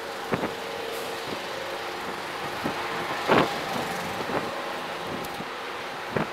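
Steady parking-lot traffic noise with a faint steady hum, broken by a few short knocks, the loudest about three seconds in.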